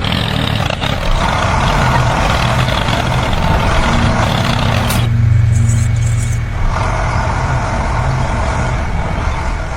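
A vehicle engine running steadily with a low hum, overlaid by a loud hiss that cuts out for about a second and a half around the middle, then comes back.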